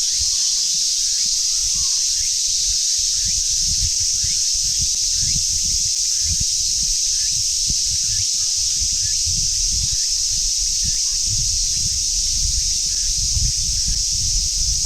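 A dense chorus of cicadas droning steadily in a high, continuous hiss-like buzz. Under it runs an irregular low rumble of wind buffeting the microphone.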